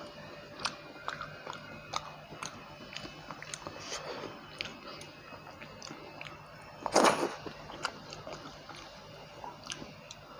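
Close-miked chewing of a mouthful of rice and fish curry, with wet mouth clicks about twice a second. One louder burst of noise about seven seconds in.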